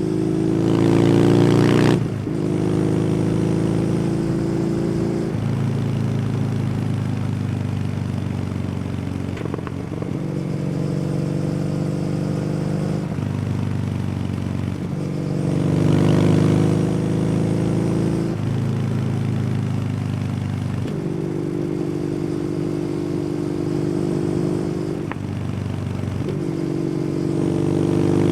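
Kawasaki W800's air-cooled parallel-twin engine through an aftermarket SC Project exhaust, heard from on the bike while riding. Its pitch climbs under acceleration and drops at each gear change, several times over, with steadier cruising between. The hardest pulls are near the start and about halfway through.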